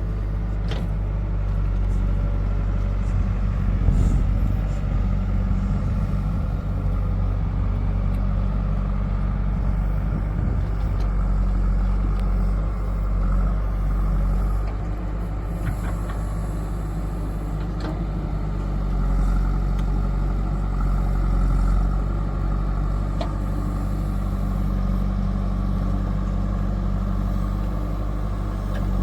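Heavy diesel engines of a backhoe loader and tractors running steadily, swelling in level a few times as they work. A few short clanks are heard now and then.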